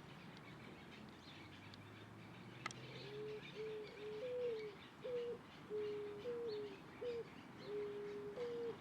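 A dove cooing: a series of low coos from about three seconds in, some notes stepping up briefly in pitch before falling back. A single sharp click comes just before the cooing starts.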